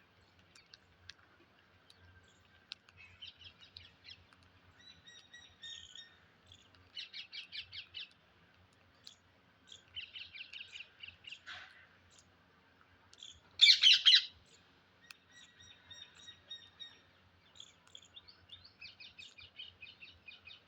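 Parrot calling: several runs of quick, repeated chirping notes and a few short whistles, with one loud, harsh squawk about fourteen seconds in.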